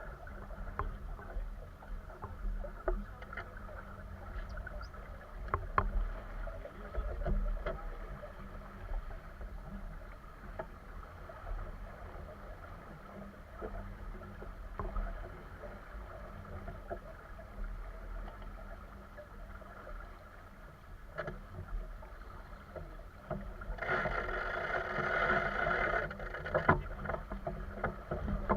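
Sounds aboard a small boat under way: a steady low rumble with scattered knocks and creaks. Near the end a louder rush of water or wind lasts about two seconds.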